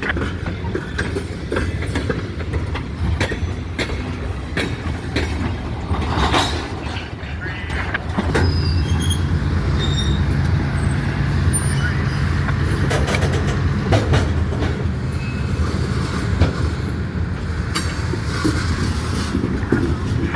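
Freight train rolling past, its wheels clicking over rail joints with a few faint wheel squeals. A deep steady hum grows louder about eight seconds in and holds.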